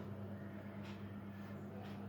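Steady low hum with two faint soft clicks, about a second apart.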